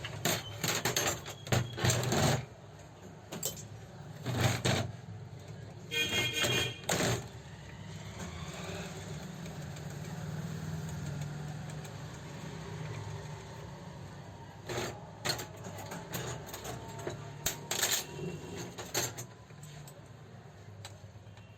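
Scattered metallic clicks, knocks and clinks of tools and parts being handled on an old overlock sewing machine under repair, with a low steady hum for a few seconds in the middle.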